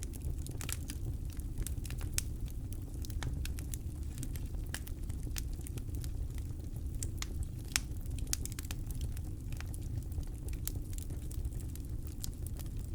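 Campfire crackling: irregular sharp pops and snaps of burning wood, with a single louder pop a little past the middle, over a steady low rumble.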